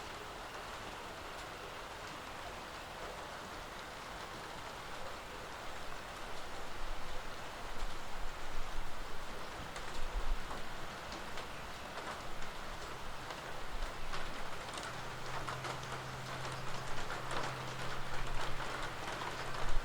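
Rain falling steadily. About five seconds in it grows heavier and uneven, with many loud individual drops close by. A low steady hum joins it for several seconds in the second half.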